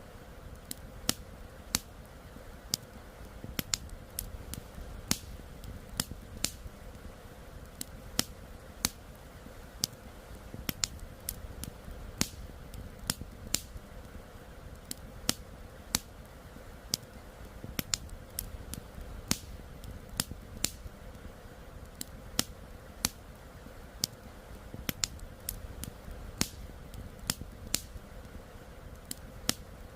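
Wood campfire crackling, with frequent sharp, irregular pops over a steady low rush of flowing river water.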